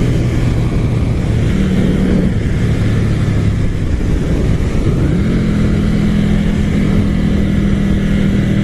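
Motorcycle engine running under a heavy rush of wind. The engine note steps up in a short rising glide about five seconds in, then holds steady.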